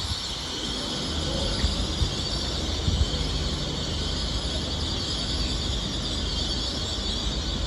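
Train moving through a station platform: a steady low rumble with a constant high-pitched hiss over it.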